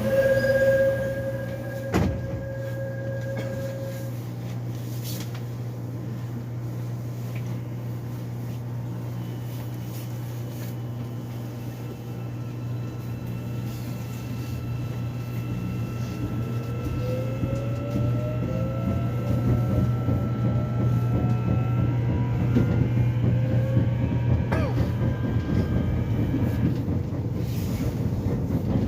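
Subway train's door warning tone sounding for the first few seconds, with a knock about two seconds in as the doors shut. The train then pulls away: from about halfway through, its motor whine rises in pitch and the running noise grows louder as it speeds up.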